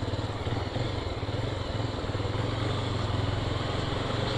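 Single-cylinder Honda motorcycle engine running steadily at an even cruising speed, with road and wind noise.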